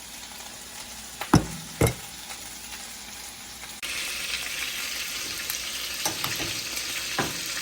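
Seasoned chicken pieces frying in hot oil with a steady sizzle. Two sharp knocks come about a second and a half in, and the sizzle turns suddenly louder just before four seconds in.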